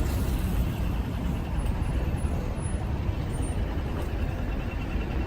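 Steady low rumble of city street traffic, with a heavy vehicle such as a bus running close by.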